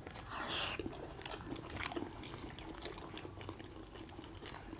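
People biting into and chewing steamed momo dumplings, with quiet wet mouth sounds and a few short clicks scattered throughout.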